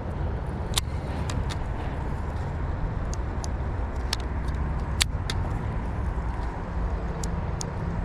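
Wind buffeting the microphone in a steady low rumble, with scattered sharp light clicks throughout, the loudest about five seconds in.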